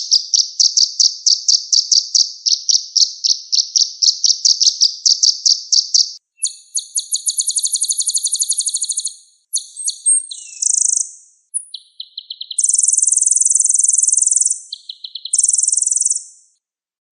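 Sunbird (kolibri ninja) singing: rapid, high-pitched trills of quickly repeated notes in several phrases with short breaks between them. The song stops about a second before the end.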